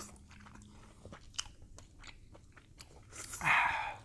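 Eating king crab legs up close: small clicks and chewing, then a louder crackling crunch of crab shell lasting most of a second, about three seconds in.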